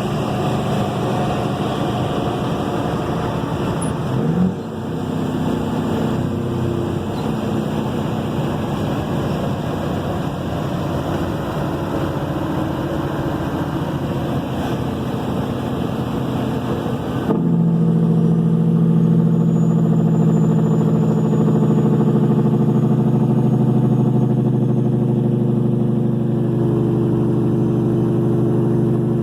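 Straight-piped Cat 3406E diesel in a Kenworth W900 truck running down the road. About 17 seconds in the engine note suddenly gets louder and turns into a strong, steady low drone that holds to the end.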